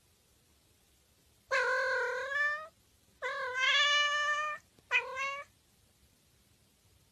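Tabby-and-white domestic cat meowing three times: two drawn-out meows of about a second each, then a short one.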